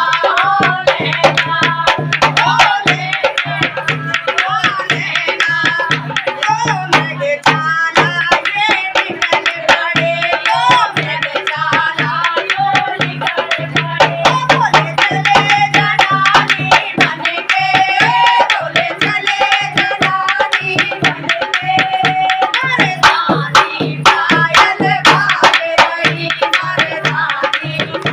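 Hindi devotional bhajan to Shiva: a woman singing over fast, dense hand-drum strokes and a steady low drone.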